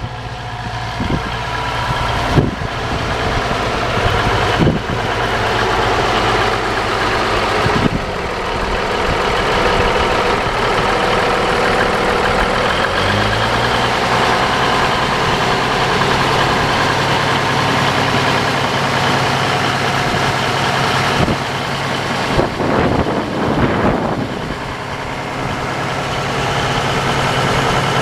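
Versatile 895 4WD tractor's large diesel engine running at idle, a steady hum whose pitch steps up slightly about halfway through as the engine speed rises. A few sharp knocks sound over it in the first several seconds.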